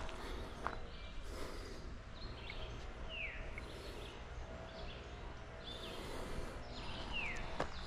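Birds singing: short down-slurred whistles and high chirps scattered through, over steady outdoor background noise, with a couple of footsteps, one near the start and one near the end.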